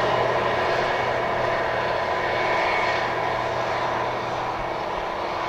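Rocky Mountaineer passenger cars rolling past on the rails, a steady rush of wheel noise with a faint ringing tone in it, slowly fading as the end of the train draws away.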